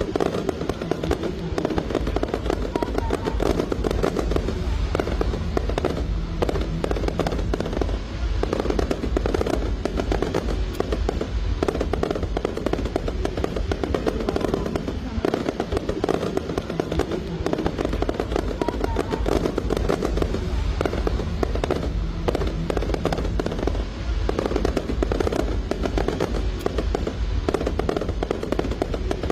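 Aerial fireworks going off continuously, a dense rapid crackle of small bursts over a low booming rumble, with music playing underneath.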